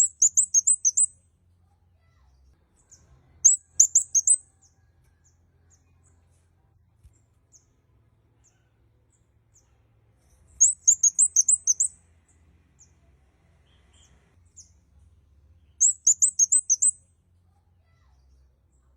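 Red-headed flowerpecker (kemade kepala merah) calling: four short bursts of rapid, very high, clear chip notes, each about a second long, spaced a few seconds apart.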